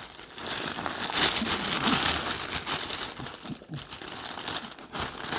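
Crinkling and rustling of the plastic packaging around a new dog bed as a puppy noses and paws at it, going on unevenly with a couple of brief lulls.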